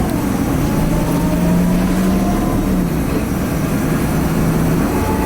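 Inside a 2010 Nova Bus LFS articulated city bus under way: its Cummins ISL diesel engine drones steadily over road rumble, with a faint high turbo whine slowly rising in pitch.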